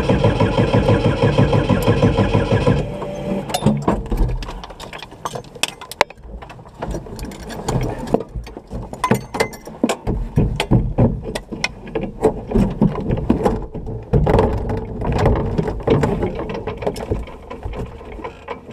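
Rally buggy's engine turning over for about three seconds, then stopping abruptly: it keeps cutting out, which the crew put down to the ignition box or the fuel pump. Irregular clicks and knocks in the cockpit follow.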